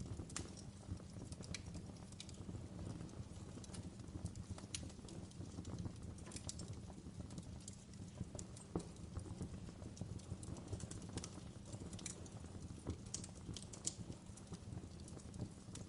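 Wood fire in a fireplace crackling: irregular sharp pops and snaps scattered over a low, steady rumble of burning.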